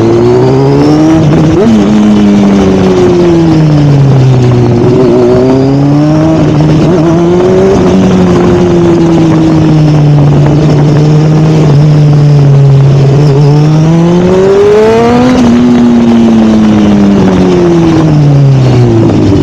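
Sportbike engine running loud through an aftermarket MGP exhaust, its revs rising and falling several times, holding steady for a few seconds in the middle and dropping away at the end.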